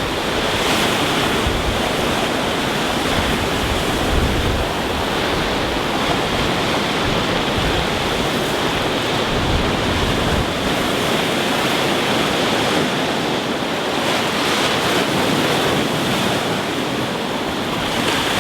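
Rough sea surf breaking on a pebble beach: a continuous, steady rush of waves washing over the stones.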